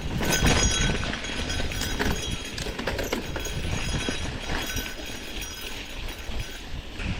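Gravel bike rolling over a rough dirt and rock fire road: tyres crunching on gravel, with scattered clicks and rattles of stones and the bike.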